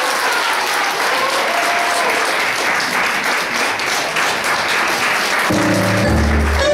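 Audience applauding, with the end of a piece of music faintly under the clapping; about five and a half seconds in, tango music starts up with a strong bass line.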